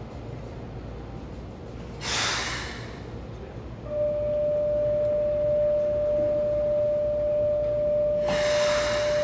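Keikyu 1000 series electric train standing at the platform, letting out two short hisses of compressed air, about two seconds in and near the end. From about four seconds a loud steady single-pitch electronic tone sounds without a break.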